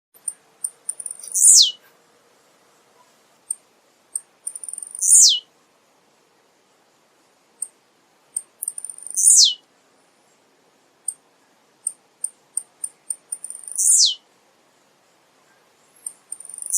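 Male blue-black grassquit (tiziu) singing its short song over and over, about every four seconds. Each song is a few short, very high ticks followed by a quick high note that slides steeply downward.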